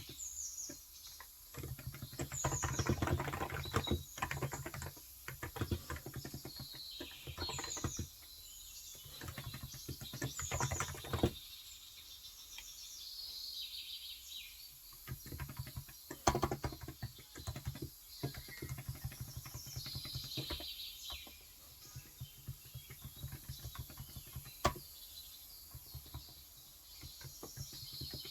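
Typing on a Cox Endeavor electro-capacitive tenkeyless keyboard with 35 g switches: runs of soft key clicks broken by short pauses. Small birds chirp repeatedly in short high calls over the typing.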